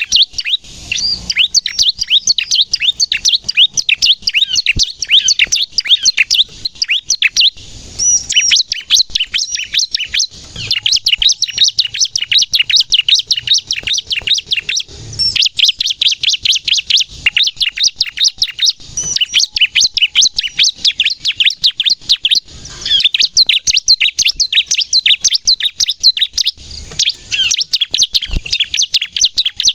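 Bar-winged prinia (ciblek) singing hard, a rapid, nearly unbroken stream of high, sharp chirps and trills with only brief pauses: the energetic 'gacor nembak' song used to lure and stir other ciblek into singing.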